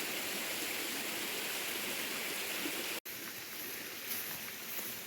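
Flowing stream water, a steady rushing hiss. About three seconds in it cuts off abruptly and gives way to quieter, uneven outdoor ambience with faint rustling.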